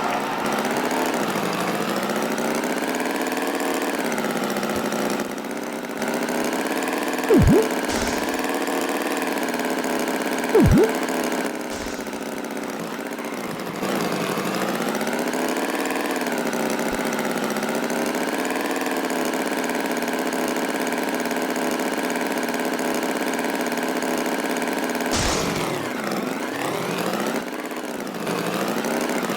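Tractor engine idling steadily, its pitch wavering slightly. Two short, loud swooping sounds cut in about seven and ten seconds in.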